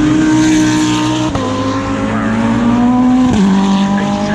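GT3 race car engine under hard acceleration, heard from onboard, with two quick upshifts where the pitch drops sharply, about a second in and again past three seconds.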